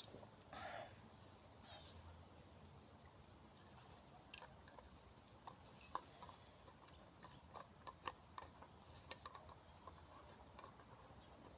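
Near silence, with faint scattered small clicks and ticks and a brief faint rustle in the first second.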